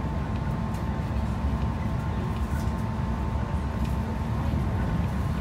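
Steady running rumble inside a JR West 221 series electric train car, with a faint steady whine and a few light clicks and rattles.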